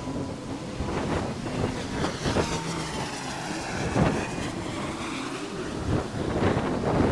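Honda CG125's single-cylinder four-stroke engine running on the move, its note shifting up and down with the throttle, under wind buffeting on the microphone.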